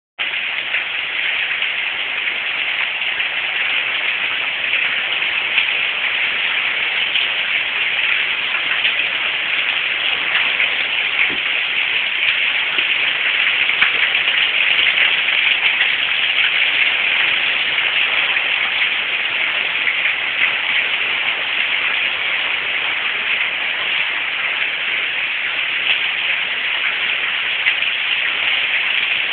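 Steady rain, a dense hiss of many drops pattering on a surface.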